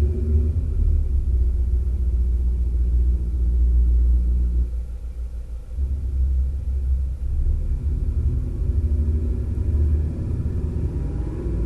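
Mazda CX-5 with a THOR active sound exhaust, its speaker-made engine note heard from inside the cabin as a deep, steady rumble. It eases off for about a second some five seconds in, then comes back.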